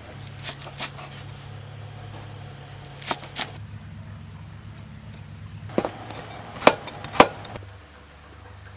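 Sharp light knocks and clacks, mostly in pairs, over a steady low hum that stops near the end.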